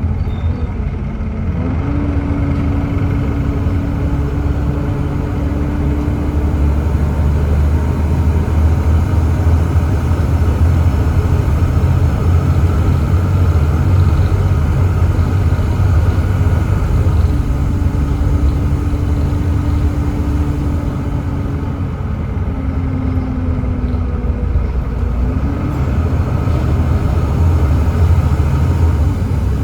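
Volvo B7TL double-decker bus driving, its Volvo D7C 7.3-litre diesel engine running with a steady low rumble. A thin whine comes and goes and shifts in pitch a few times as the bus changes speed.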